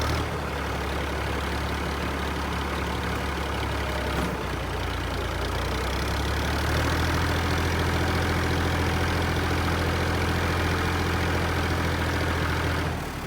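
Tractor diesel engine running steadily. It grows a little louder about six and a half seconds in and drops away near the end.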